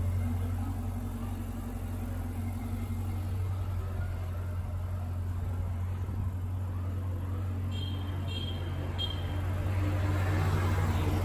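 Ferrari 488 GTB-based 7X Vision GTO's twin-turbo V8 idling steadily with a low drone. Three short high beeps come about eight seconds in.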